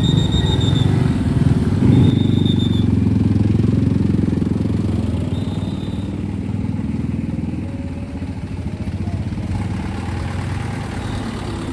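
Motorcycle engines running close by, a steady low rumble that eases a little in the second half, with a few short high tones near the start, about two seconds in and around five and a half seconds.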